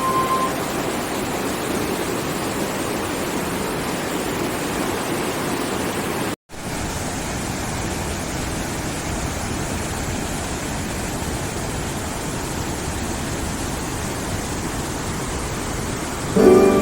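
Waterfall crashing down, a steady even rush of water, broken once by a brief dropout about six seconds in.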